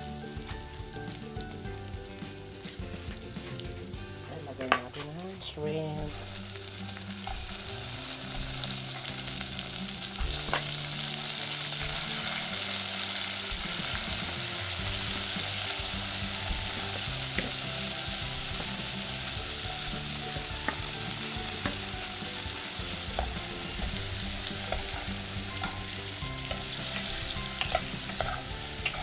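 Onions and garlic sizzling in hot oil in a pot. About five seconds in there is a sharp knock as whole shrimp go in, and the sizzle grows louder and stays loud. Light clinks of stirring come near the end.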